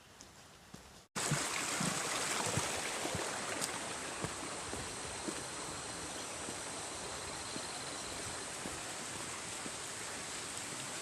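Steady heavy rain falling, an even rushing noise that starts abruptly about a second in, after a few faint clicks in quiet.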